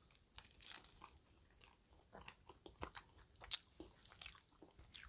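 Faint close-up mouth sounds of chewing a soft, dry coffee bun, with scattered small clicks and smacks and two sharper ones a little past halfway.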